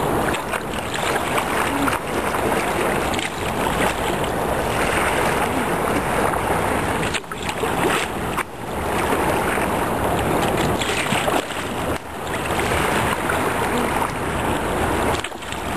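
Turbulent, fast-moving river water rushing around a sea kayak, mixed with wind buffeting the microphone, dropping briefly a few times.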